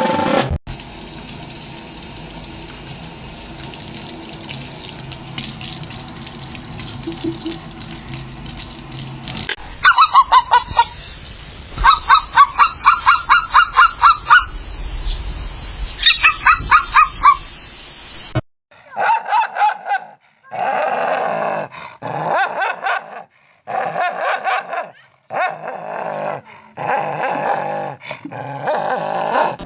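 Animal calls in quick succession: first a run of short, loud, pitched calls repeated several times a second, then longer calls broken by short pauses.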